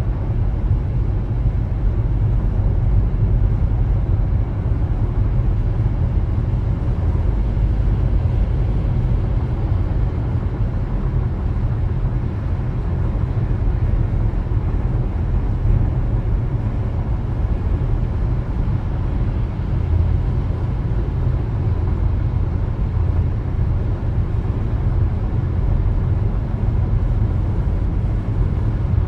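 Car driving along, with steady road and tyre noise under a low rumble.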